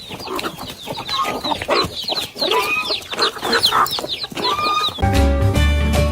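Several chickens clucking, a quick overlapping run of short calls, cut off about five seconds in by music with a heavy bass.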